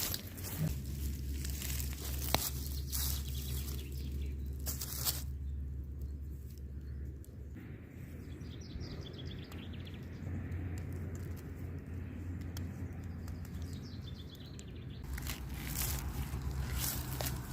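Rustling and crinkling of things being handled, with sharp clicks in the first few seconds and again near the end. A low steady rumble runs underneath, and faint bird chirps come in the quieter middle.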